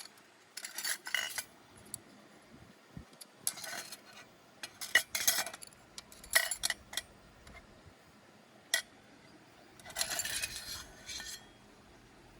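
Cutlery and dishes clinking and clattering in about six short bouts, the last and longest near the end.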